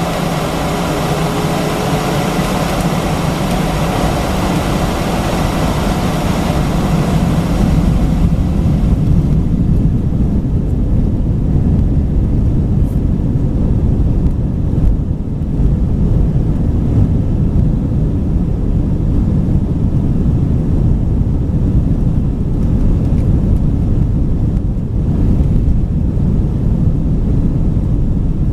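Airbus A319 jet engines and airflow heard from inside the passenger cabin, a loud steady rush with faint steady tones. About eight seconds in the high hiss falls away, leaving a deep, steady rumble.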